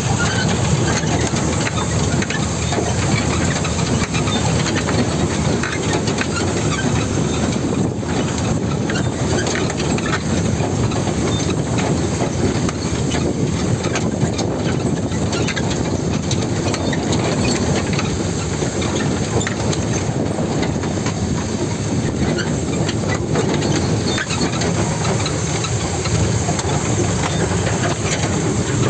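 A 16-wheel truck running on a rough river track: a steady, loud, heavy rumble with continual rattling clatter on top.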